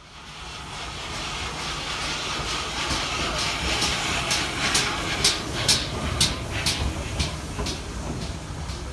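GWR steam locomotive and train running on the line: a steady rushing hiss and low rumble, with a run of sharp regular clicks, about two a second, through the middle.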